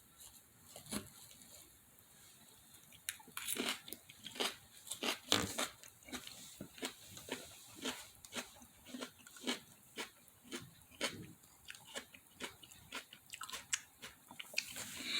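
A person chewing crunchy food close to the microphone: irregular crunches and mouth clicks, few at first, then frequent from about three seconds in.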